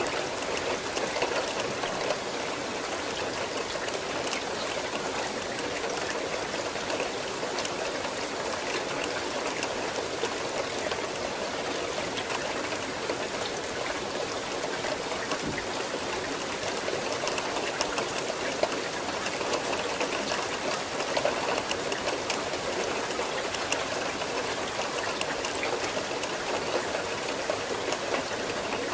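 Steady rain falling: a continuous hiss of water with many separate drop hits ticking through it.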